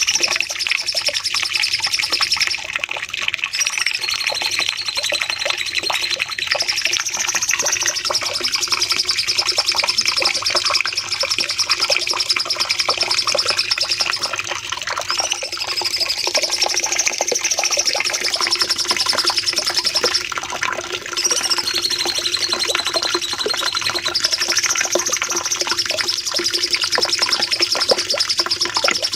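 Cucak cungkok songbird singing a long, unbroken rapid chattering song, its high trilling phrases recurring about every six to seven seconds, as in a looped bird-training recording.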